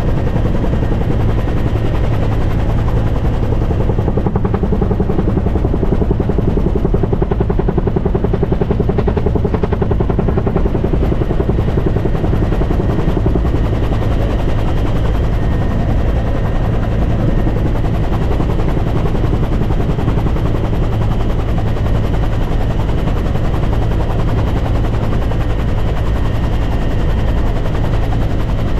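Helicopter running loud and steady, its rotor beat and engine sounding without a break.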